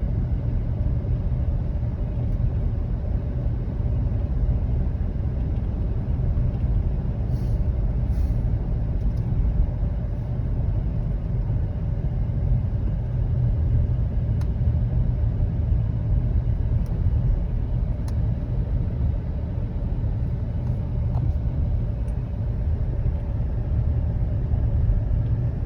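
Car climbing a steep road, heard from inside the cabin: a steady, low engine and tyre rumble.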